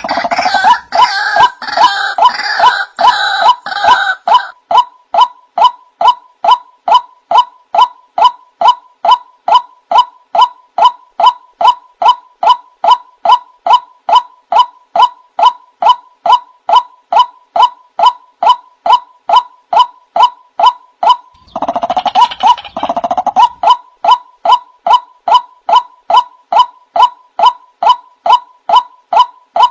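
Male white-breasted waterhen calling: a long, even string of short, sharp calls, about two a second. Rougher, gurgling calls run over it for the first few seconds and again about twenty-two seconds in.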